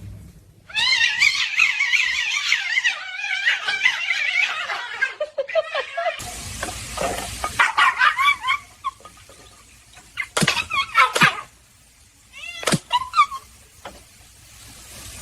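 A pet animal's high, wavering cries, coming in several separate short bursts with quiet gaps between them.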